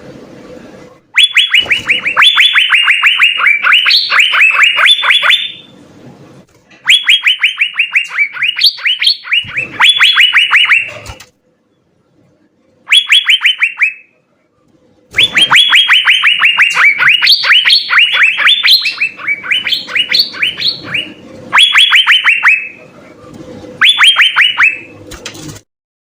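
Asian fairy-bluebird (cucak biru) singing loudly in rapid trains of short, downward-slurred whistled notes, several a second, in bursts of one to several seconds with short pauses between.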